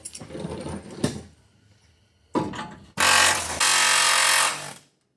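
Metal clattering and knocks, then a power tool runs loudly for about two seconds and stops abruptly, during work to free a steel frame cross member.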